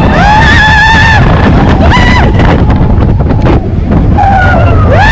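Roller coaster ride on Expedition Everest: a loud, constant rumble of the train and rushing wind, with riders screaming three times, near the start, about two seconds in, and near the end.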